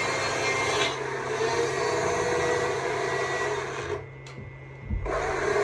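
Stihl MSA 200 C battery chainsaw running and cutting into wood while carving. It stops briefly about four seconds in, then starts again.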